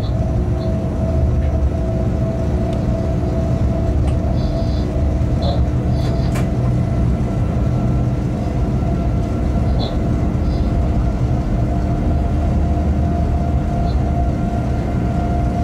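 Freight train running steadily, heard inside the locomotive cab: a continuous low rumble of wheels on rail with a steady hum, and a few faint short high peeps.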